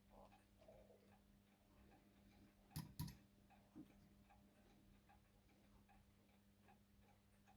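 Faint, even ticking of a mechanical clock, with two sharp clicks close together about three seconds in and a low steady hum underneath.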